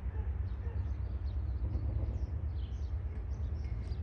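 Songbirds chirping repeatedly over a continuous low rumble.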